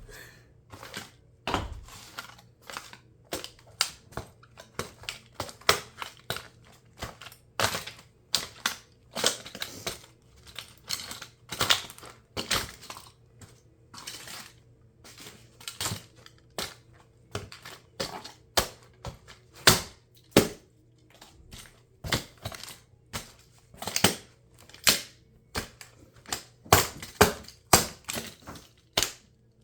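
Plastic body and parts of a toy RC car cracking and snapping under high heels as it is crushed, with sharp cracks at uneven intervals, about one or two a second.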